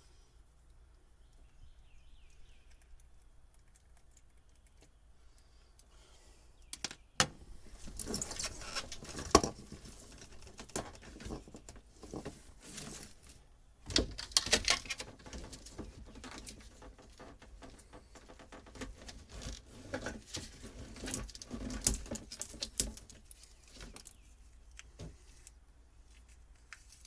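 Hands pulling and handling old boat wiring: rustling with irregular metallic clinks and sharp clicks, starting after several quiet seconds and settling down near the end.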